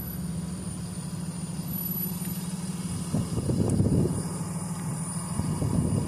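Strong wind buffeting the microphone in gusts, surging about three seconds in and again near the end, over a steady low rumble in the first half.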